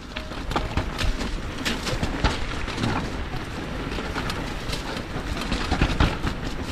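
Downhill mountain bike riding over a rough trail: a steady rush of tyre and wind noise with frequent rattles and knocks from the bike.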